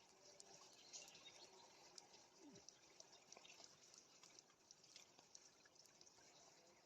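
Near silence: faint outdoor ambience with scattered soft clicks.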